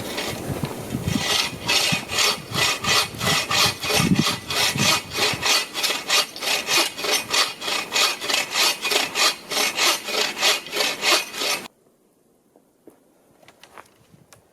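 Hand saw cutting through a standing dead tree, in steady back-and-forth strokes about two and a half a second. The sawing stops suddenly near the end.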